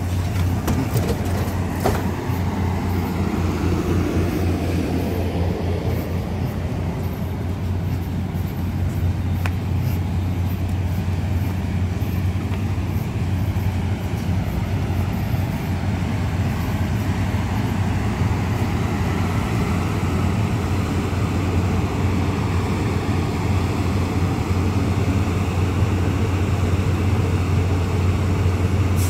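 Mugunghwa-ho passenger train alongside the platform, giving a steady low hum and rumble as it creeps to a halt.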